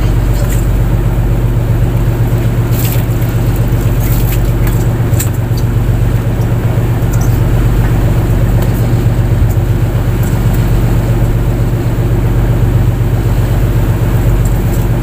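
Fishing boat's engine running steadily under way, a loud, even low drone.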